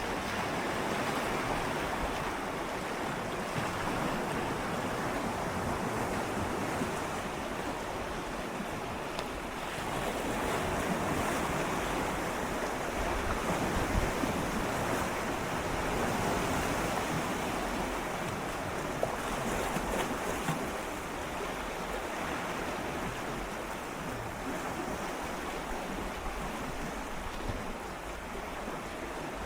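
Gentle sea waves swirling and lapping against shoreline rocks, a continuous wash that swells and eases every few seconds, with some wind on the microphone.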